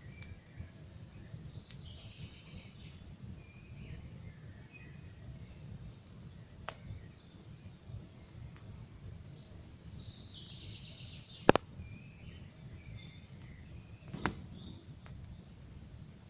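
Wood campfire burning with three sharp crackling pops, the loudest about two-thirds of the way in, while songbirds chirp and sing throughout.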